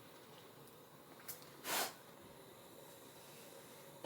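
A single short, sharp breath through the nose, a sniff, a little under two seconds in, over faint steady room noise.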